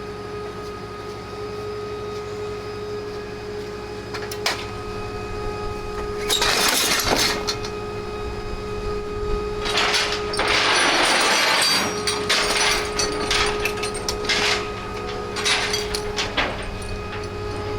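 A wrecked Harley-Davidson motorcycle being dragged onto a tow truck, scraping and grinding loudly in three long bursts, about six, ten and fifteen seconds in, with a sharp knock near four seconds. Under it the tow truck's machinery runs with a steady whine.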